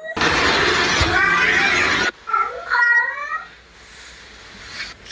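Cat vocalising: a long, harsh yowl that stops abruptly about two seconds in, then a shorter meow that bends up and down in pitch.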